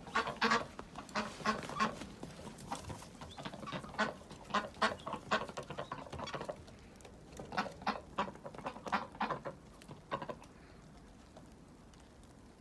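A bird giving a long run of short calls, several a second, which stops about ten seconds in.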